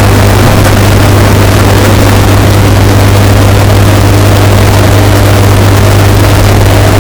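Washing machine running, bass boosted and overdriven to the point of distortion: a very loud, steady low hum under a harsh noisy hiss, unchanging throughout.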